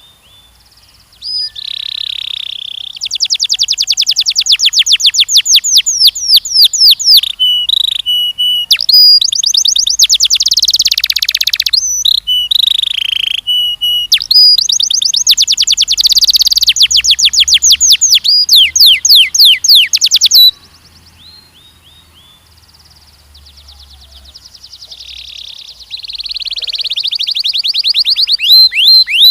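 A canary singing long rolling trills of rapid repeated notes, switching from one trill to the next. The song breaks off suddenly about two-thirds of the way through, then starts again softly and grows louder near the end.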